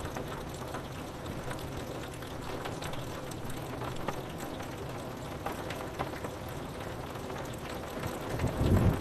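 Steady rain on window glass, with single drops ticking throughout. A low rumble of thunder swells up near the end.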